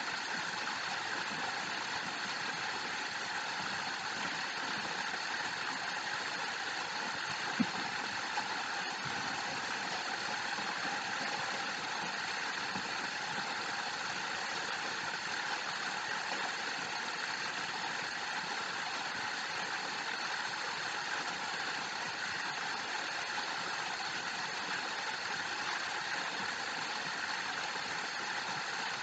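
Waterfall rushing steadily, with a single brief tap about eight seconds in.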